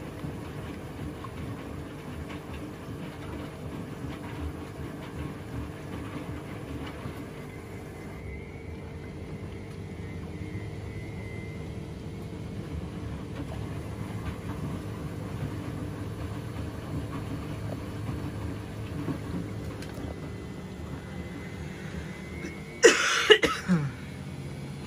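Washing machine running mid-cycle on a bedding wash, a steady hum with a constant low tone. Near the end, a short loud sound falls steeply in pitch for about a second.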